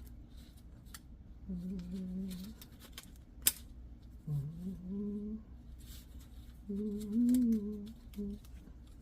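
A man humming a tune under his breath in three drawn-out phrases, with scattered light clicks and ticks from small engine parts being handled, one sharper click about three and a half seconds in.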